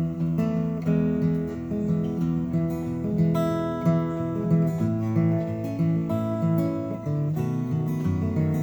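Acoustic guitar strummed and picked in a steady rhythm, playing an instrumental break with no singing.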